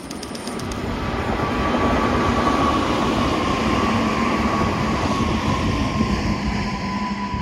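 A train running past on the rails: its rumble swells over the first two seconds, then holds loud and steady with a steady whine above it.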